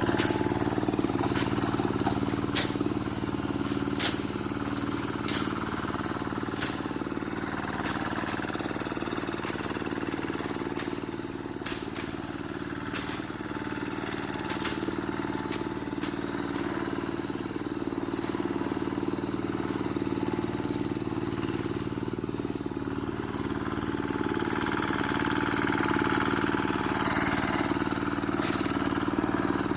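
Engine of a Quick G1000 two-wheel hand tractor running steadily, with sharp clicks that repeat about every one to one and a half seconds, mostly in the first half and again near the end.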